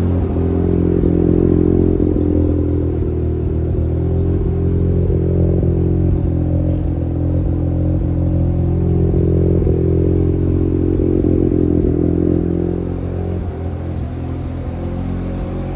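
Mazda RX-8's two-rotor Renesis rotary engine idling steadily, its level rising and falling slightly.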